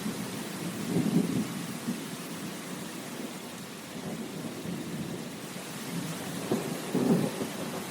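Steady rain, with low swells of sound rising about a second in and again near the end.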